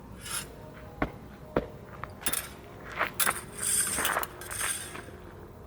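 Fencing drill heard live: shuffling footwork on the floor with several sharp clicks and knocks, and a brief burst of swishing noise about two-thirds of the way through.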